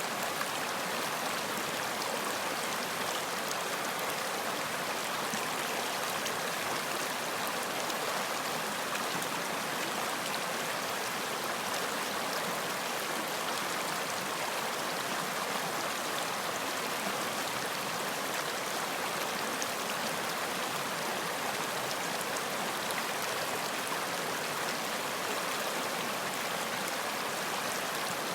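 Running water, a stream, flowing steadily with an even rush and faint scattered droplet ticks.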